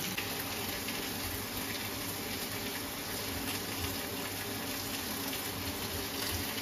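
Lamb chops sizzling steadily as they fry in a pan.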